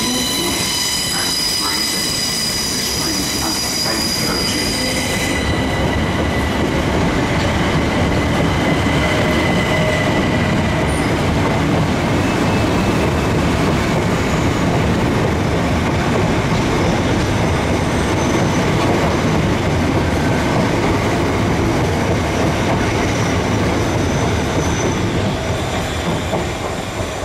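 A train running along the platform with a steady rumble of wheels on track. A high-pitched whine sounds over it for the first five seconds or so, then cuts off suddenly.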